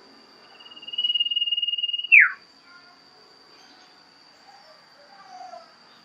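Common iora (cipoh) giving its long whistle: one high note held level for about a second and a half, then dropping in a quick downward slur. A steady high insect trill runs underneath, with a few soft lower notes near the end.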